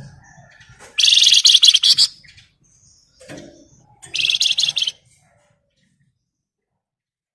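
Flamboyan songbird singing two loud, rapid rattling trills (ngebren), each about a second long and about three seconds apart, with fainter chirps between.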